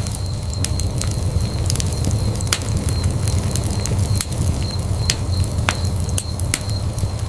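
Fireplace wood fire burning with a steady low rumble and frequent irregular sharp crackles and pops.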